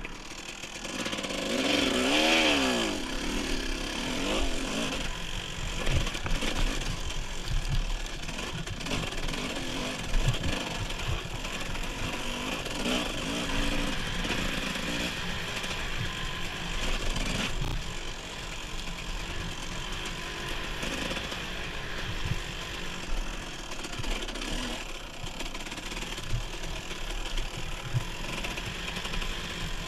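Dirt bike engine running on a trail ride, its revs rising and falling about two seconds in, then held under continuous riding noise with scattered low knocks.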